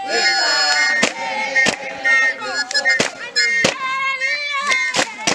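A group of voices singing in a traditional song, with sharp percussive beats a little over half a second apart, such as stamping, clapping or drum strikes.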